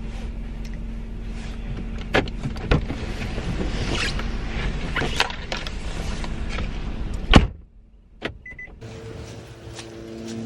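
Steady car-cabin hum with rustling and clicks as someone moves about inside. About seven seconds in a car door shuts with a loud thud, the hum drops away, and a short high beep follows.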